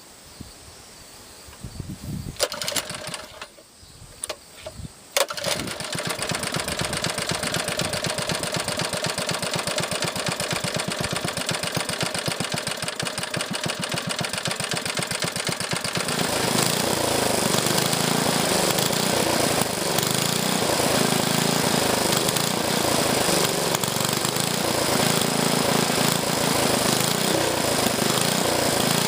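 A 1970s Clinton air-cooled small engine catches about five seconds in, after a few short bursts, and then runs steadily. Past the halfway point it speeds up and gets louder.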